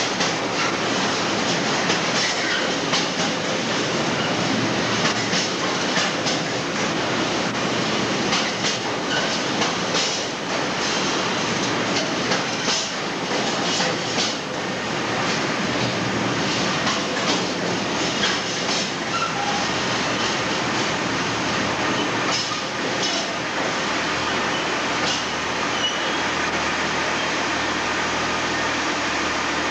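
A train running through a station, its wheels clattering over rail joints with occasional brief wheel squeals. The clatter thins out near the end, leaving a steady low hum.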